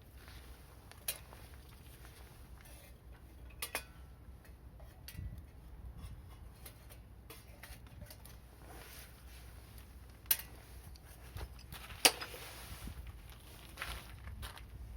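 Wood fire crackling, with a low rumble and a few sharp pops, the loudest about twelve seconds in.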